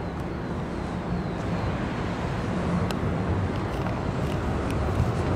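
Low, steady rumble of a train on the railway bridge beside the walkway, growing slowly louder as it approaches, with a few faint clicks.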